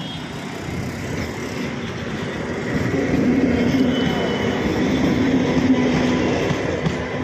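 MEMU electric multiple-unit train running past on the rails, a steady rumble of wheels and carriages that grows louder about three seconds in, with a low steady hum over the middle of it.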